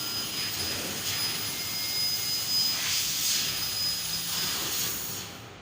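Fiber laser cutting machine running: a steady hiss with a thin high whine, swelling now and then, that drops away about five seconds in.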